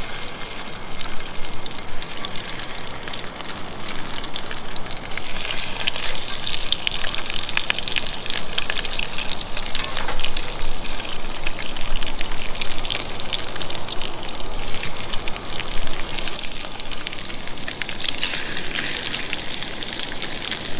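Mahi-mahi pieces frying skin side down in butter and olive oil in a small cast-iron pan: a steady sizzle of fine crackles that grows denser about five seconds in.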